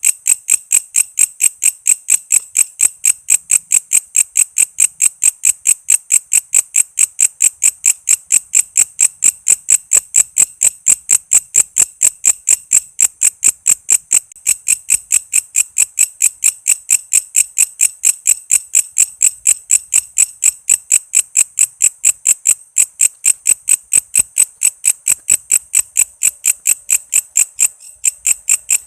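Walang kece insect singing: a loud, shrill, steady train of short chirps, about four to five a second, pausing briefly twice.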